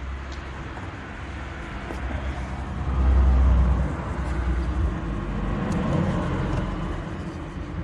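Low rumble of a motor vehicle, swelling to its loudest about three seconds in and then easing off.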